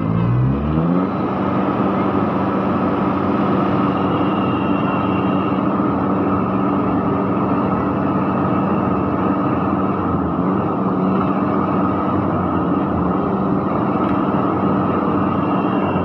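Vehicle engine revving up in the first second, then held at high, steady revs, straining to free a vehicle bogged in mud.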